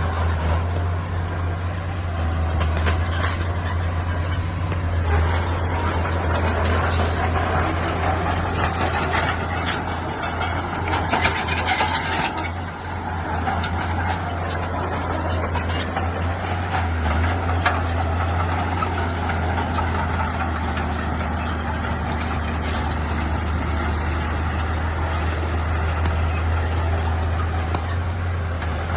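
Heavy diesel earthmoving machinery running steadily with a deep low drone, with scattered metallic clanks and a brief hiss about halfway through.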